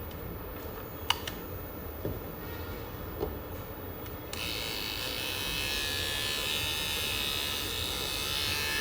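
A few sharp clicks, then about four seconds in a repaired battery-powered trimmer switches on and runs with a steady high buzz, showing the motor now works.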